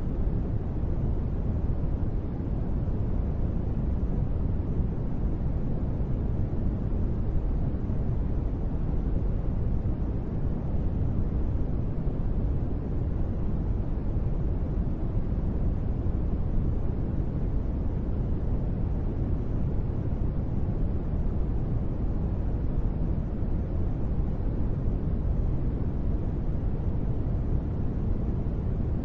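Steady, deep rushing noise from a continuous rain ambience used as sleep white noise, muffled and low-pitched, with no single drops standing out. It holds the same level throughout.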